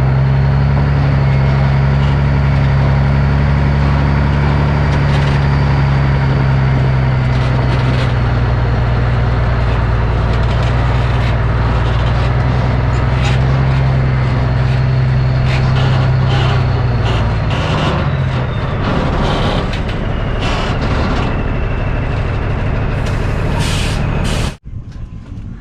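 A 30-year-old semi tractor's turbo diesel engine running steadily through its new dual exhaust stacks. After about 17 s the steady engine note breaks up, with scattered clicks and hisses. The sound cuts off abruptly just before the end.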